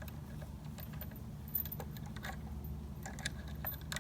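Scattered light clicks and taps, a few a second and irregular, over a steady low hum.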